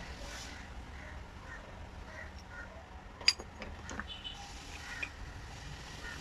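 One sharp click about three seconds in, followed by two lighter clicks, over a low steady background hum.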